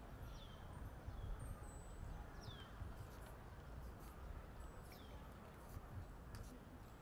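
Quiet outdoor ambience: a low steady rumble with a bird's short falling chirp, heard three times about two and a half seconds apart, and a few faint ticks in the middle.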